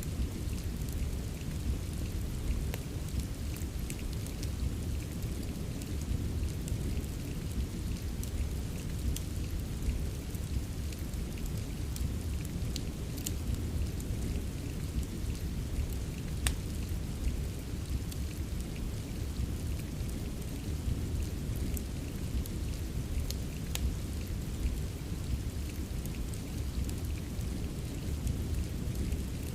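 Steady rain with a deep, continuous rumble underneath, and scattered sharp pops from a crackling wood fire. The loudest pop comes about halfway through.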